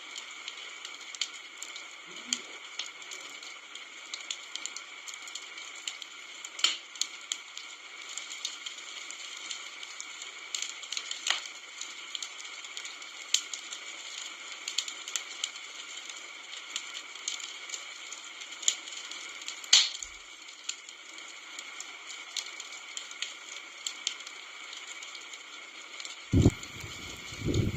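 Wood fire crackling: a steady hiss of flame with frequent sharp pops and snaps scattered irregularly, a few of them louder. Two low thumps near the end.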